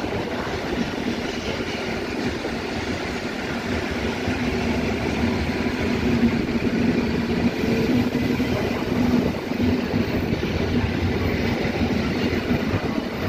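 Regional electric multiple unit rolling slowly past along the platform: a steady rumble of wheels and running gear with a low hum from the drive, both swelling as the middle cars go by.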